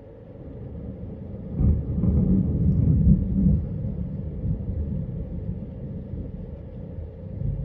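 Thunder rumbling: a low rumble builds, jumps to a loud roll about a second and a half in, and then slowly fades.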